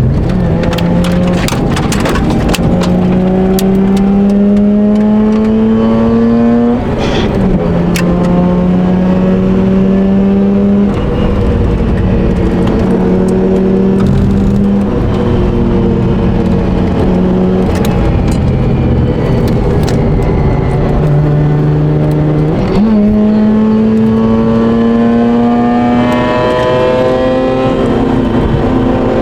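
Mazda RX8's two-rotor Wankel rotary engine pulling hard on track. Its pitch climbs through the gears, drops sharply at shifts about seven seconds in and again near the end, and eases off in the middle before rising again, with scattered sharp knocks over it.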